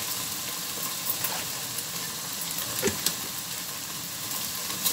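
Eggplant cubes deep-frying in a pan of oil, sizzling steadily, with a few light clicks.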